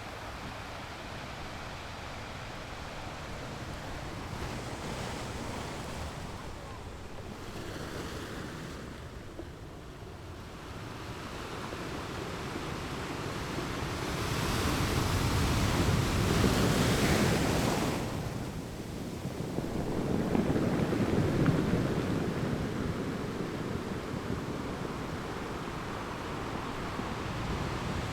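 Ocean surf washing in, a steady rush that swells into two louder waves in the second half and then eases back.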